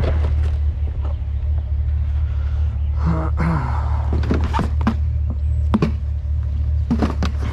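Steady low rumble of a truck driving, with scattered knocks and clicks and a brief voice-like sound about three seconds in.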